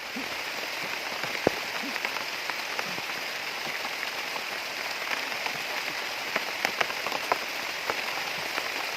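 Steady rain falling, a continuous hiss with scattered sharp drop impacts.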